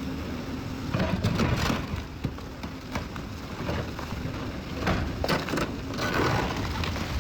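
Building collapsing: a steady rumble of crunching, falling debris, with clusters of sharp cracks about a second in and again about five seconds in.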